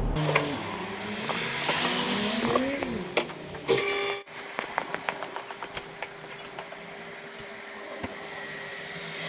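Motor vehicle sounds with wavering engine pitch, a short loud buzzing tone about four seconds in, then scattered ticks over a steady faint hum.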